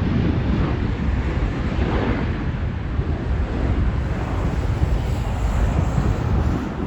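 Jet airliner engines rumbling as a plane passes, with wind buffeting the microphone. The sound is loud and steady and eases slightly near the end.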